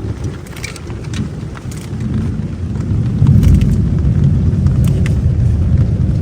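A thunderstorm in heavy rain: a low rolling rumble of thunder that swells about three seconds in, with raindrops tapping close by.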